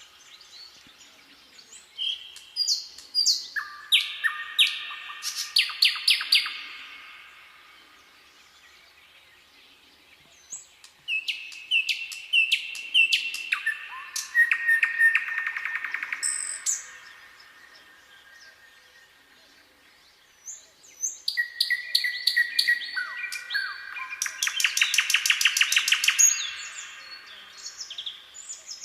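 A songbird singing in three bouts, each a run of repeated, stepwise descending notes that ends in a rapid trill, with quiet pauses between the bouts.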